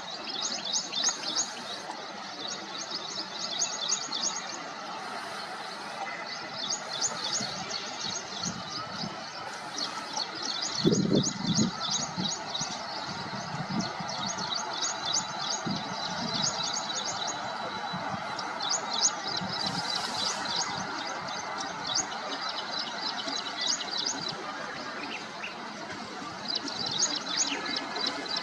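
Small birds chirping in quick repeated trills over a steady background hiss, with a short low thump about eleven seconds in.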